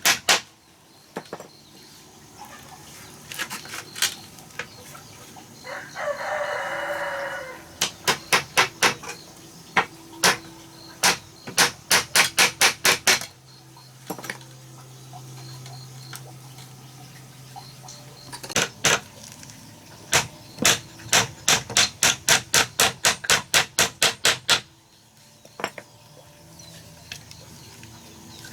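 Hammer blows striking wood in quick runs of about two to three strikes a second, with a rooster crowing once, about six seconds in. A low steady hum sounds for a few seconds in the middle.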